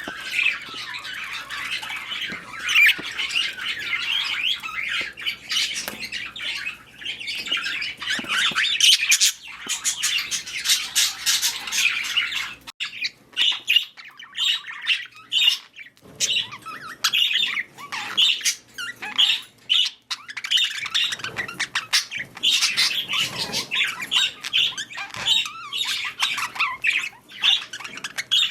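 Budgerigars chattering and squawking, a dense unbroken warble of chirps. About halfway through it breaks into shorter, separate chirps and squawks.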